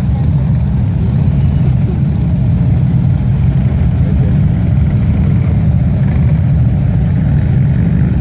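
Motorcycle engines idling in a steady low rumble.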